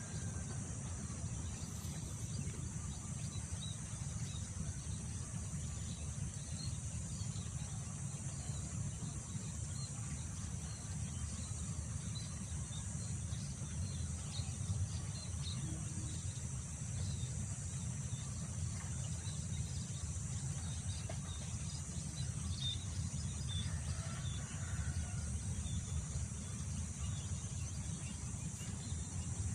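Wind buffeting the microphone in a steady low rush, under a constant high drone of insects such as crickets, with scattered faint bird chirps.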